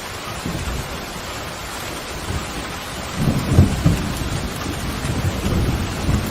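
Steady heavy rain with thunder rumbling low underneath, swelling into a louder rolling rumble about three seconds in.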